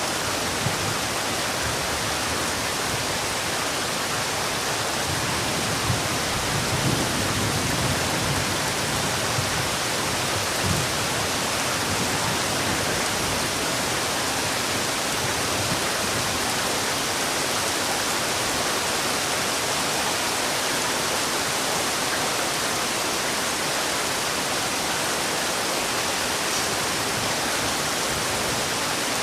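Heavy rain falling steadily, an even hiss with a few small spatters and thumps standing out in the first half.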